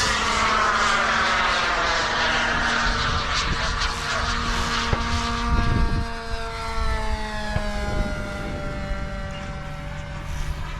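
Radio-controlled airplane's motor and propeller whining in flight, a high-pitched tone that slowly falls in pitch and fades as the plane passes and flies away.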